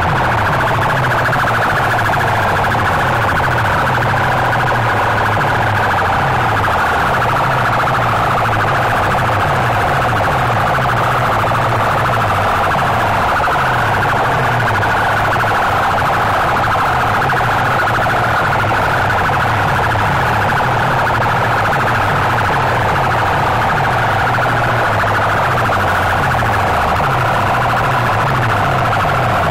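Loud DJ sound-system speaker boxes in a sound competition playing a siren-like wailing tone over a heavy pulsing bass pattern, with no breaks.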